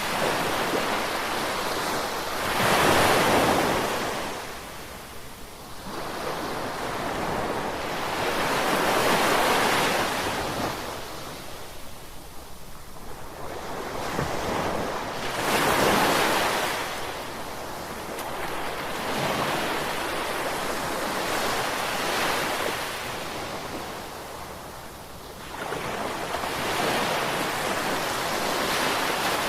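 Ocean waves breaking and washing up the shore, the surf swelling and fading about every six seconds.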